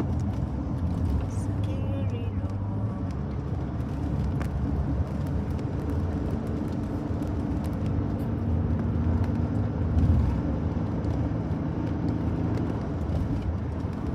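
Car interior driving noise: a steady low rumble of engine and tyres heard from inside the cabin, with a brief louder rumble about ten seconds in.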